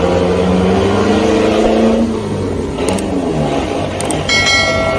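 A vehicle engine running under load, its pitch rising and then falling away about two seconds in. A short horn blast sounds near the end.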